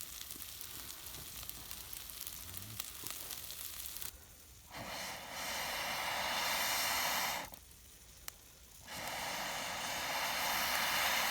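Food sizzling in a pan, a steady hiss at first, then much louder and hissier in two spells starting about four and a half seconds in and about nine seconds in, split by a short quieter lull.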